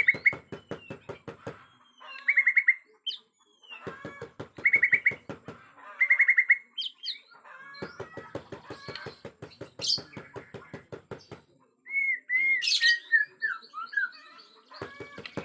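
Bornean white-rumped shama singing in fierce, agitated form: loud whistled notes and quick trills with a few gliding notes near the end, broken by three stretches of rapid, even clicking rattle at about eight clicks a second, each lasting about two seconds, with a fourth starting near the end.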